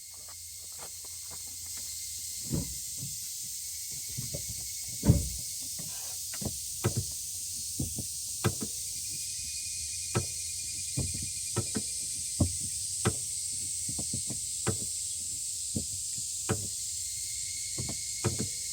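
Clutch of a Toyota Passo TRD Sport M making irregular clicks and knocks, one every half second to second and a half, the loudest about five seconds in, over a steady hiss. This is the abnormal clutch noise that comes with a grinding feel at the pedal once the car is warm. It goes away when the car has fully cooled and has come back after two clutch replacements.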